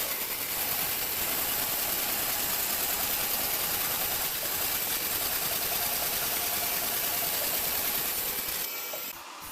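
A woodworking power tool running steadily on wood, with a dense, fast buzzing texture, then stopping shortly before the end.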